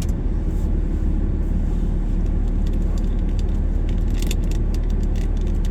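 Steady low rumble of a vehicle driving on a snowy road, heard inside the cabin, with scattered light clicks and rattles, a cluster of them about four seconds in.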